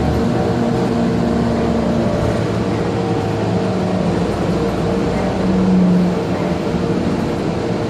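Cabin sound of an Orion VII CNG transit bus: the engine and drivetrain running steadily, with humming tones that shift pitch a few times, over the steady rush of the HVAC. It swells briefly louder a little before the end.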